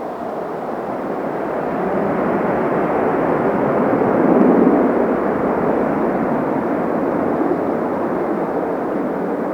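A Boeing 737-300's jet engines, a loud, steady roar that swells to a peak about four and a half seconds in, then holds slightly lower.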